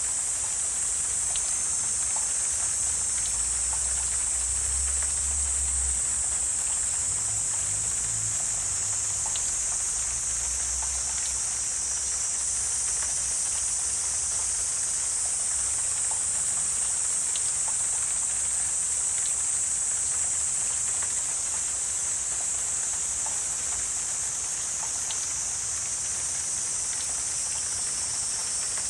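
Wetland insect chorus: a steady, high-pitched drone, with scattered faint clicks and a low rumble during the first several seconds.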